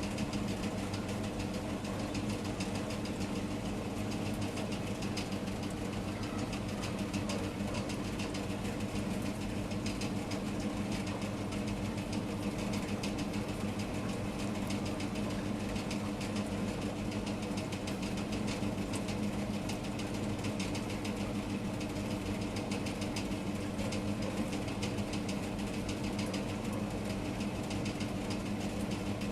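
Steady rain with dense, fine ticks of drops hitting a surface, over a constant low hum.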